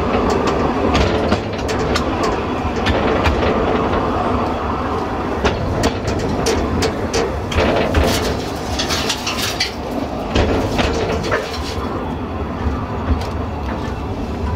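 Railway carriage riding along the track: a steady wheel rumble with sharp clicks over the rail joints, and a brief higher-pitched stretch of noise a little past the middle.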